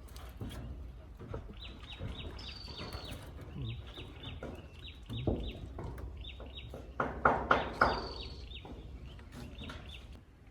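Bird calls: quick runs of short, high chirps, each falling slightly in pitch, repeated through most of the stretch. Three sharp knocks, the loudest sounds here, come close together about seven seconds in.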